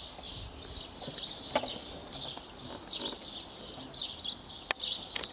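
Small birds chirping and twittering continuously, with a sharp click near the end.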